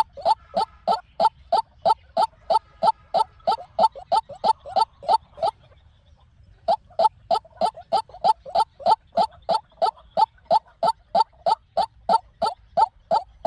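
White-breasted waterhen calling: a fast, even series of short calls, about three a second. The series breaks off for about a second just before the middle, then picks up again at the same pace.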